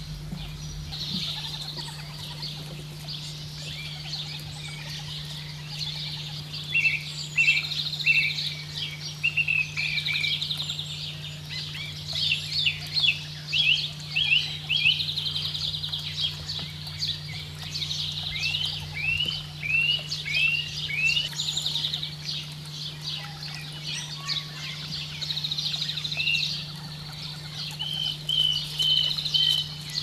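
Birds chirping and trilling: many short high calls, with runs of quick sweeping notes. A steady low hum runs underneath.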